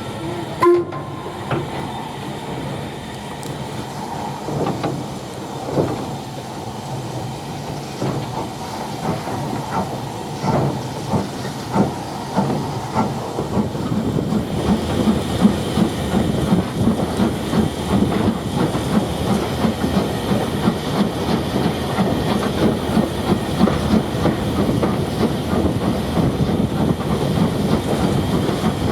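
Steam-hauled heritage train running along the line, its wheels clicking over the rail joints under a steady hiss. It gets louder about halfway through.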